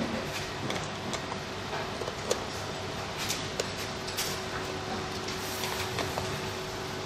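Scattered light clicks and taps over a steady hiss with a faint hum.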